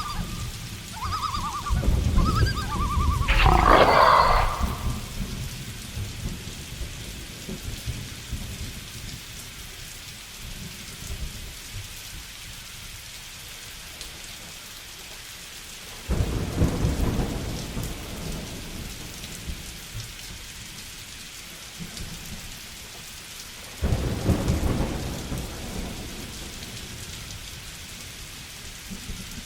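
Steady heavy rain with thunder rumbling three times, about two, sixteen and twenty-four seconds in. A few short animal calls sound in the first two seconds, and a loud burst cuts through the first rumble about three seconds in.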